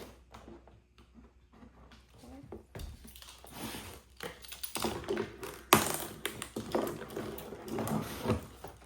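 A cardboard shipping box being worked open with a house key: irregular clicks, taps, scraping and crinkling of tape and cardboard, busier after the first couple of seconds, with one sharp click a little over halfway through.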